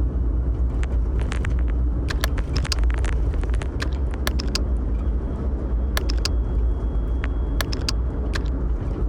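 Steady low wind rumble on the microphone, with scattered sharp clicks and scuffs of footsteps and gear on a dog walk.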